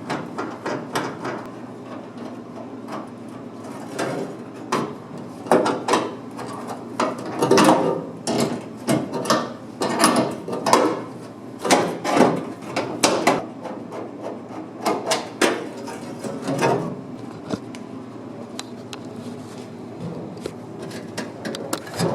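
Irregular knocks and clatter of tools and metal parts being handled and set down, busiest in the middle stretch, over a steady low hum.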